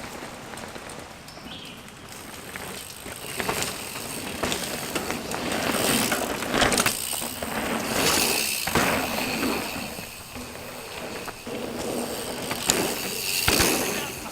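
Mountain bike riding a dirt trail: tyres rolling over dirt and rock, with the bike clattering and knocking over rough ground and the noise swelling and easing as speed changes.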